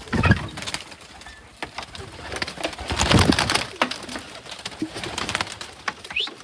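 Pigeons cooing and moving about, with clattering and rustling that peaks in two loud bursts, one at the start and one about three seconds in.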